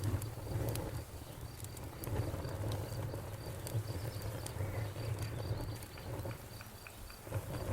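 Campfire burning: irregular sharp crackles and pops over a steady low rumble of flame. A faint high chirp repeats evenly several times a second behind it.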